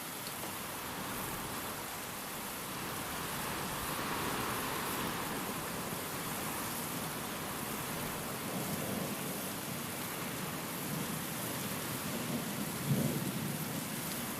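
Steady heavy rain with wind, and a low rumble of thunder building in the second half that peaks in a sudden loud crack near the end.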